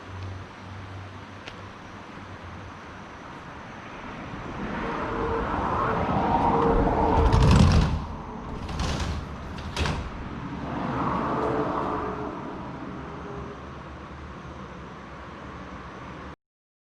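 A train on a rural line, its rumble building over a few seconds and peaking, with a faint steady tone. Three short hisses of air follow in quick succession, then the sound dies away, and it cuts off abruptly near the end.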